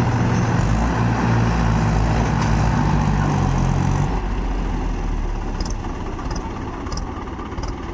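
Tractor diesel engine running loudly and steadily, its sound turning rougher and less even about four seconds in.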